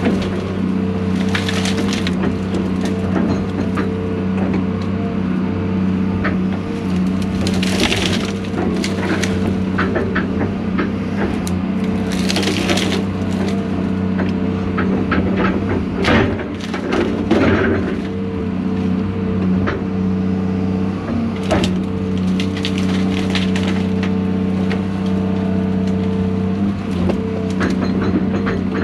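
Diesel engine of a John Deere 250G LCR excavator running steadily while wood repeatedly cracks and splinters under the machine as brush and dead wood are crushed and pushed into a burn pile.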